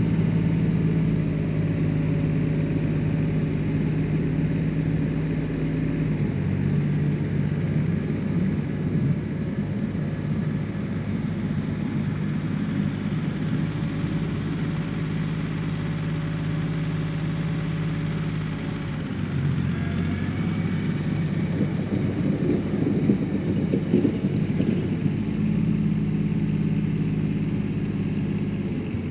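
1985 John Deere 1050 tractor's diesel engine running steadily under plowing load, its note shifting several times as the load changes. A few knocks come about two-thirds of the way through.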